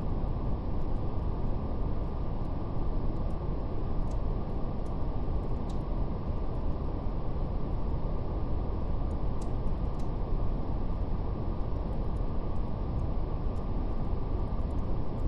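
Steady brown noise, a deep, even hiss with no sound above the low and middle pitches, with faint, scattered crackles of a wood fire.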